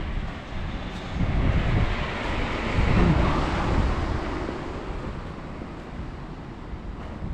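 A vehicle passing on the street, its noise swelling to a peak about three seconds in and then fading, with wind buffeting the microphone.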